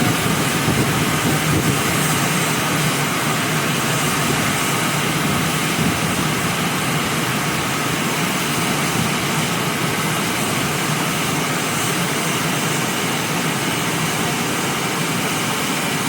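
Gantry car wash machine running, a steady loud rushing noise from its spray jets or drying blowers.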